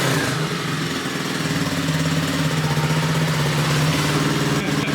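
Single-cylinder 125cc X Pro pit bike engine running steadily at idle, slightly louder for a couple of seconds in the middle.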